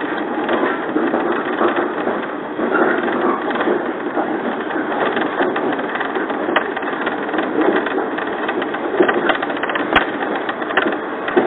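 Inside a JR 115-series electric train on the move: a steady rumble and rattle of the running car, with occasional sharp clicks, including a quick run of ticks about nine seconds in.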